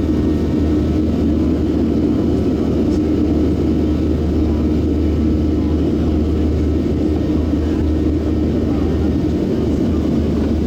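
A Boeing 737-700's CFM56-7 jet engines running with a steady, even drone and a strong low hum.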